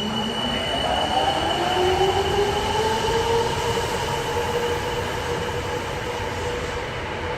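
Namboku Line subway train pulling out of the station, its traction motor whine rising in pitch as it accelerates and then levelling off, over a steady running rumble.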